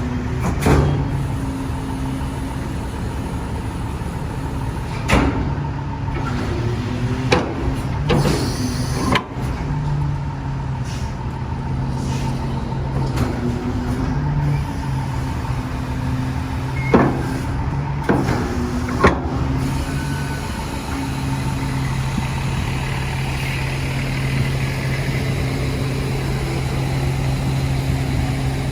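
Diesel engine of a 2014 Peterbilt 320 garbage truck idling steadily, with a few sharp knocks or clunks scattered through.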